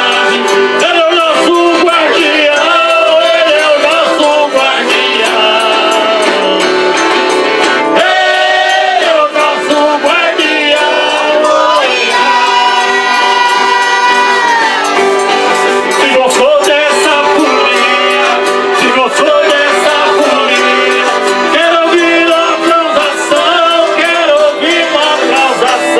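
Folia group singing in unison, backed by an eight-bass diatonic button accordion (oito baixos) playing continuously.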